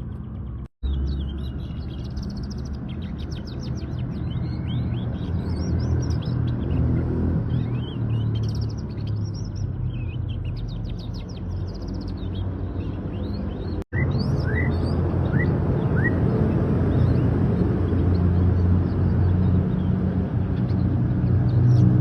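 Canary singing in fast trills and twittering phrases, with a run of four short rising chirps just after the middle, over a steady low rumble. The song breaks off for an instant twice.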